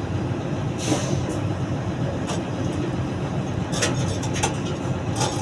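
Steady low mechanical rumble of an engine running somewhere nearby, with a few scattered sharp clicks.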